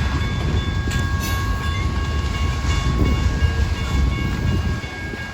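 Freight train rolling past: a steady low rumble of the cars on the rails, with steady high ringing tones over it. The rumble eases briefly near the end.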